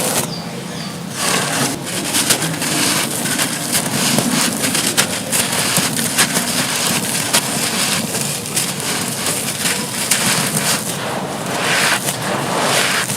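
Dry, dusty brittle material being crumbled and crushed: a continuous gritty crunching and crackling with many small sharp snaps.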